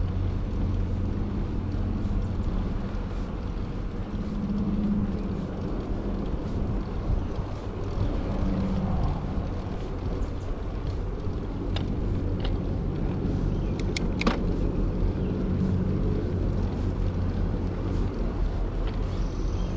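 Wind buffeting the microphone during a bicycle ride, a steady low rumble, with a few brief clicks a little past the middle.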